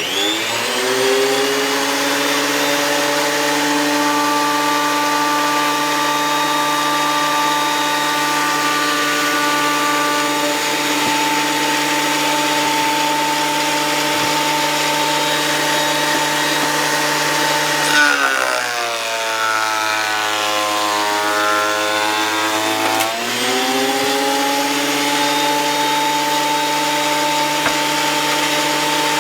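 Thickness planer with newly changed blades spinning up with a rising whine, then running steadily. About two-thirds of the way in, the motor slows and drops in pitch for about five seconds, as under the load of a board feeding through the cutterhead, then speeds back up.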